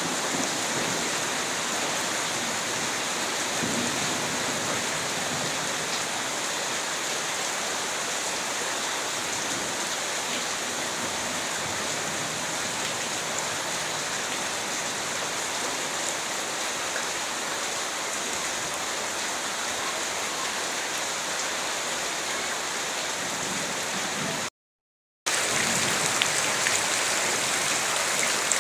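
Steady rain falling hard, an even dense hiss of drops on surfaces, with the tail of a low thunder rumble fading in the first moments. The sound cuts out completely for under a second about 25 seconds in, then the rain resumes slightly louder.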